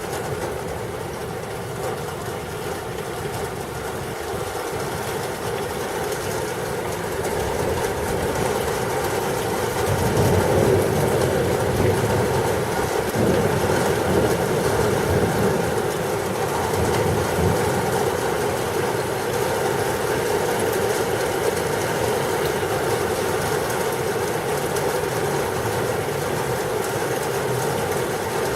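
Thunderstorm noise: steady rain and wind, with a long low rumble of thunder that swells about ten seconds in and slowly eases off.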